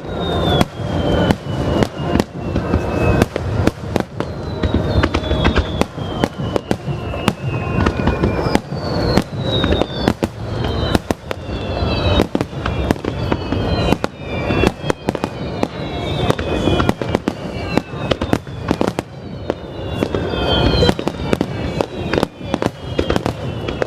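Aerial firework shells bursting in rapid, dense succession, with repeated high falling whistles over the bangs.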